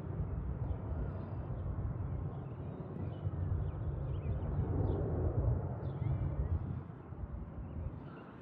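Low rumble of a departing aircraft, rising and falling in level and fading near the end.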